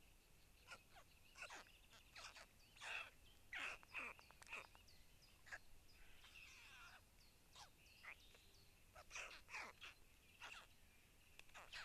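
Faint bird calls: a string of short, quick chirps and chips, several falling sharply in pitch, coming in loose runs throughout.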